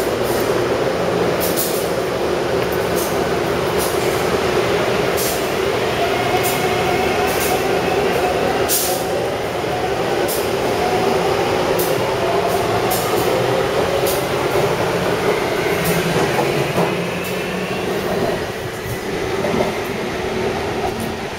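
Taipei Metro C371 electric train running, a steady rail rumble with the motor whine rising slowly in pitch as it gathers speed, and light regular clicks from the wheels.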